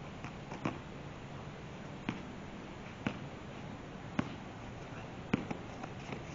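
A basketball being bounced on a hard court, with a sharp bounce about once a second.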